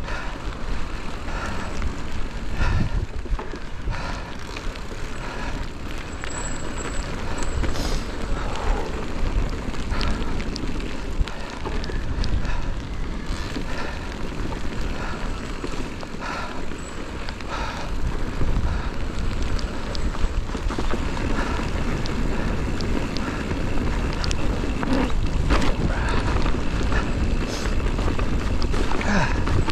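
Wind buffeting the action-camera microphone during a mountain-bike descent, with a low rumble throughout, over tyre noise on the trail. Frequent sharp clicks and knocks from the Santa Cruz Vala e-MTB rattling over bumps.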